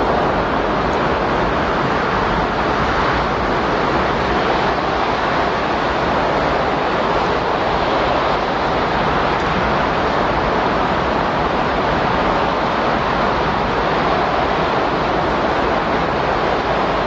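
Steady, even rushing windstorm noise with no gusts, breaks or changes. It is the cover sound of a subliminal recording, laid over affirmations meant to be too faint to hear.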